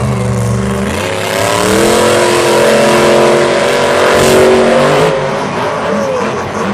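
Monster truck's supercharged V8 engine revving hard. The pitch climbs steeply about a second in, holds high and loud for a few seconds, then drops back.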